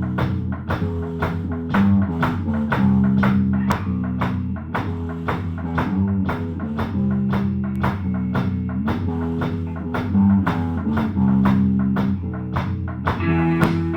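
Amateur rock band playing loud: raspy electric guitar holding low notes that change every second or so, over a steady drum beat of about three hits a second. The rasp comes from an amp the player calls knackered.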